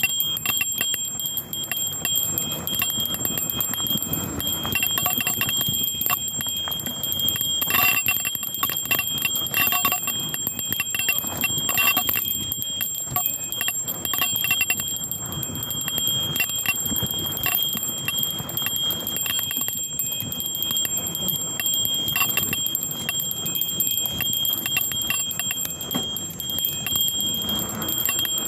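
A small bell on a mountain bike ringing and jingling nonstop as the bike is shaken over a downhill trail, over the clatter and rumble of the ride.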